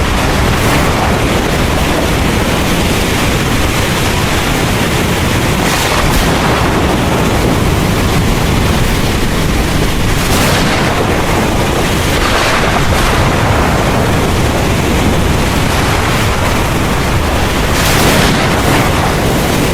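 Heavy rain pouring steadily, with a deep low rumble of thunder underneath and a few brief surges in the hiss.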